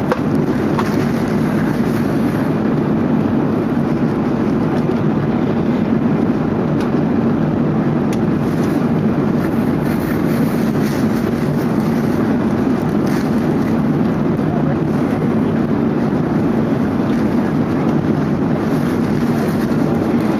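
Steady cabin noise inside an Airbus A380 in flight: a constant low drone of engines and airflow.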